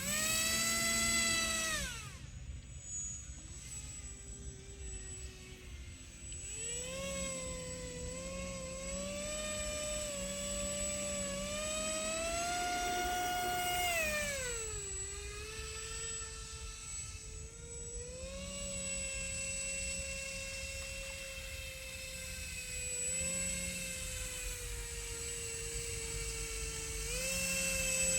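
Radio-controlled airboat's motor and air propeller running, the pitch rising and falling with the throttle. It is high at the start, drops after about two seconds, climbs and holds from about seven to fourteen seconds, eases off, and rises again near the end. A steady high whine sits over it throughout.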